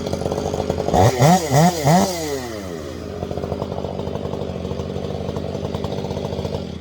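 Two-stroke chainsaw idling, then revved in three quick blips about a second in before settling back to idle.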